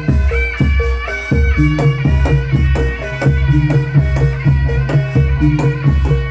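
Live Javanese traditional folk ensemble music: a steady, driving drum beat with pitched percussion notes and a sustained melody line over it.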